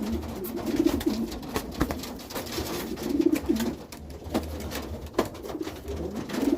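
Domestic pigeons cooing in repeated low phrases during a territorial fight, with a few sharp knocks between the coos.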